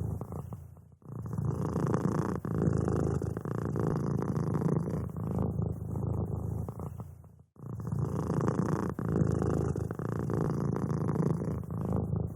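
Domestic cat purring close up: a steady, rapid rumbling pulse that dips out briefly twice, about a second in and again after about seven and a half seconds.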